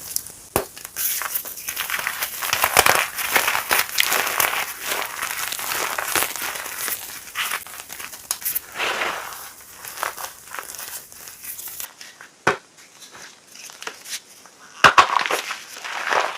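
Chunks of reformed gym chalk being crushed and crumbled: a dense run of crisp crunches and crackles that thins out after about ten seconds, then a loud, sharp crunch near the end.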